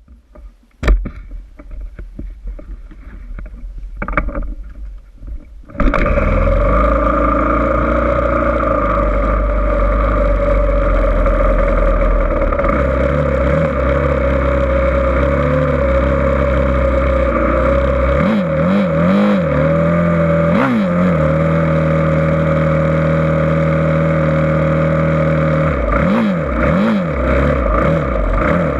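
A few scattered knocks, then about six seconds in a motocross dirt bike engine comes in suddenly, loud and steady. Its revs rise and fall in quick blips about two-thirds of the way through and again near the end.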